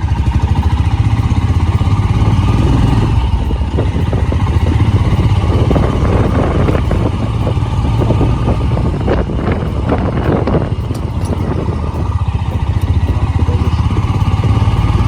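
Royal Enfield motorcycle engine running with its steady low pulse, with a stretch of irregular knocks and rattles around the middle.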